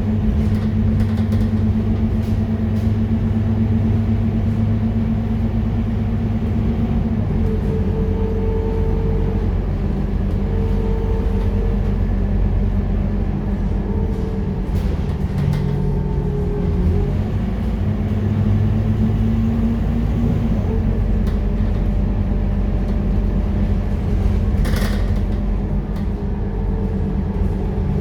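Scania K230UB single-deck bus's five-cylinder diesel engine running steadily under way, its note stepping up and down in pitch several times, with a fainter drivetrain whine above it. There is a brief sharp knock about three quarters of the way through.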